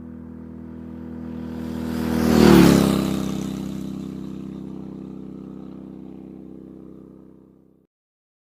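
Motorcycle engine passing by: it approaches, is loudest and drops in pitch about two and a half seconds in as it goes past, then fades into the distance.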